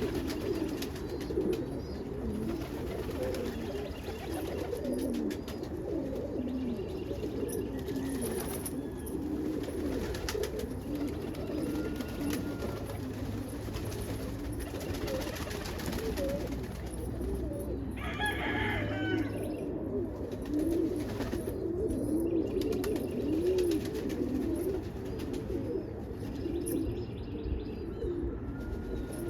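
A flock of domestic pigeons cooing, many low coos overlapping continuously. A short, higher, harsher sound cuts in about two-thirds of the way through.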